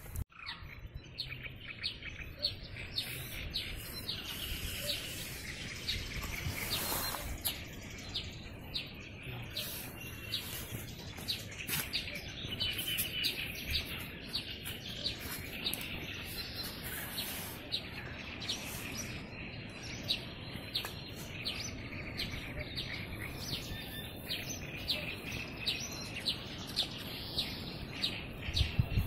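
Songbirds chirping and singing, many short calls a second, repeating over a steady background of open air.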